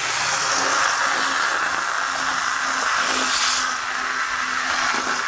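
Athearn HO-scale flywheel model locomotive running at speed along the track: a steady whir of motor and gears with wheel noise on the rails.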